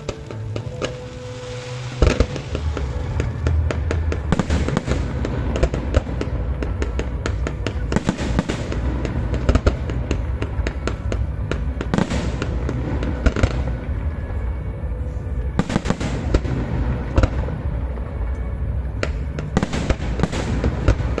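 Fireworks display going off: a loud bang about two seconds in, then a dense run of bangs and crackling bursts over a continuous low rumble, with music playing along.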